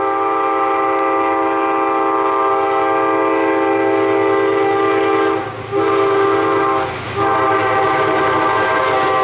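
Amtrak locomotive horn blowing a chord of several tones in the grade-crossing pattern: a long blast, a short one about six seconds in, then another long blast whose pitch sags slightly near the end. The approaching train rumbles underneath.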